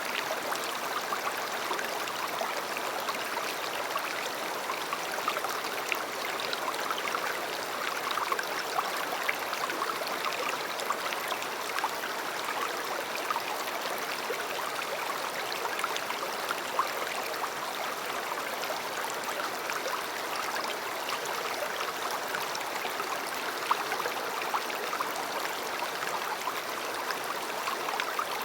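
A river flowing over stones: a steady babble of running water with many small splashes and droplets.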